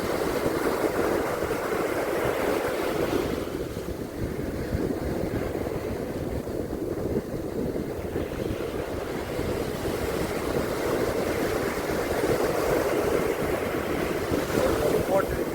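Ocean surf washing onto a beach, a steady rush that swells and eases, with wind rumbling on the microphone.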